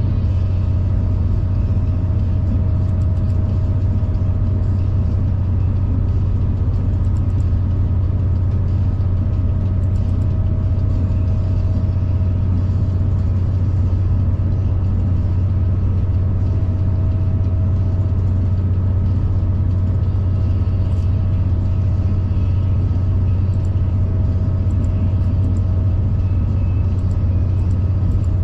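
V/Line passenger train running steadily, heard on board: an even, loud low drone with a faint steady whine above it.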